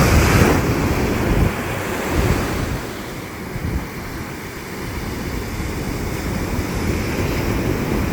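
Ocean surf: waves breaking and washing up the beach, with wind buffeting the microphone. A wave's crash fades in the first second, the surf is quieter in the middle, and it builds again toward the end.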